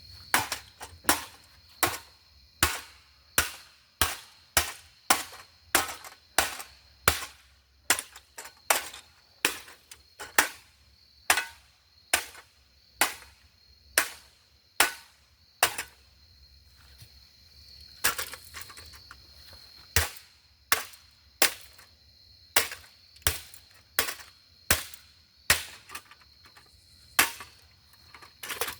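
A waterlogged ceiling fan's switch housing being struck over and over with a golf club: sharp hits about one and a half to two a second, with a break of about two seconds a little past halfway. A steady high cricket chirring runs underneath.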